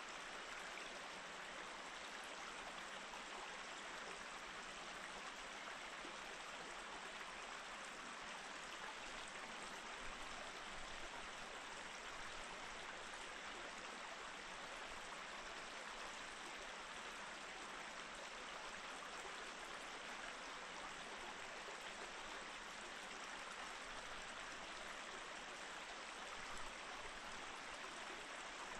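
Small mountain stream flowing steadily over rocks, an even rushing and babbling of water.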